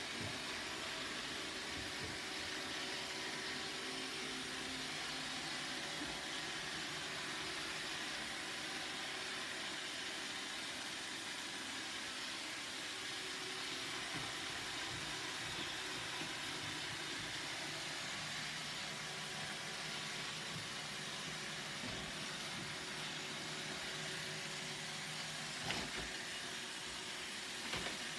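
Roomba robot vacuum running with a steady, hissing whir, with two brief knocks near the end.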